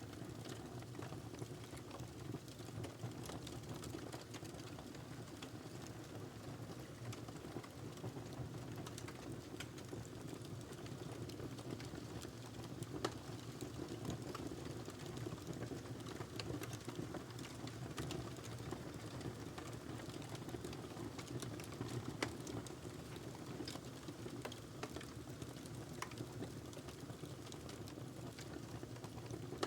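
Wood fire crackling steadily, with frequent small pops and snaps over a low rushing of flames; two louder pops about 13 and 22 seconds in.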